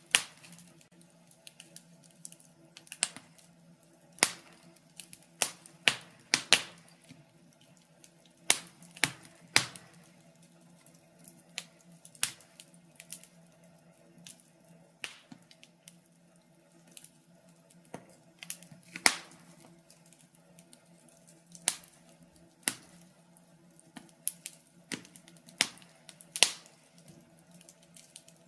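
Wood fire crackling in a fireplace: irregular sharp pops and snaps, some much louder than others, a few every couple of seconds over a faint steady hum.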